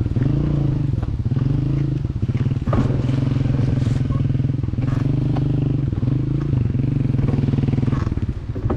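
Motorcycle engine running close by at a steady low speed, its pitch dipping and recovering a few times, with a few sharp clicks and clatters over it.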